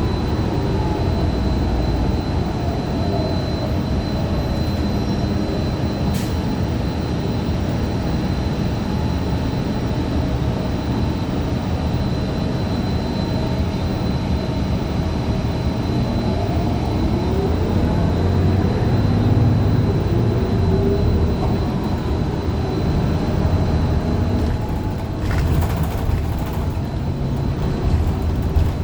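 Cabin ride noise of a 2015 Gillig Low Floor 40-ft CNG transit bus under way, its Cummins Westport ISL G engine and Allison B400R automatic transmission running with the pitch rising and falling as it accelerates and shifts, over a steady high whine. The uploader reports the transmission is faulty. A few sharp rattles come near the end.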